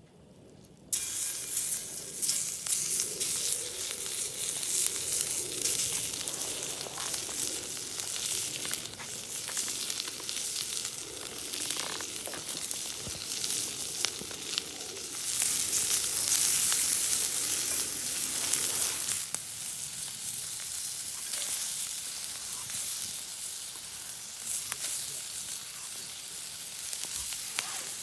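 Food sizzling and spitting in a hot pan, starting abruptly about a second in and growing louder for a few seconds around the middle.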